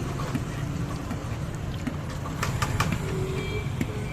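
Street background noise: a steady low traffic rumble, with a quick run of sharp clicks a little past halfway.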